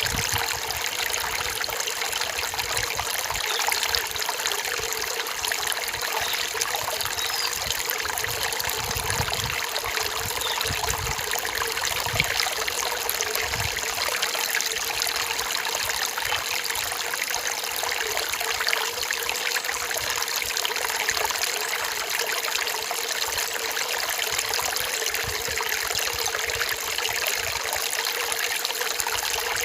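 Forest stream trickling and flowing steadily over rocks.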